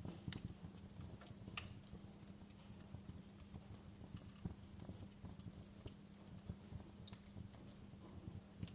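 Wood fire in a fireplace crackling, with irregular snaps and pops over a low steady rumble; a couple of sharper pops come near the start and about a second and a half in.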